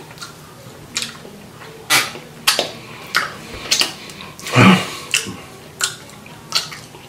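Open-mouthed chewing of a sticky barbecued rib, with a wet smack of the lips or tongue every half-second to second. About four and a half seconds in comes one louder smack with a short hum.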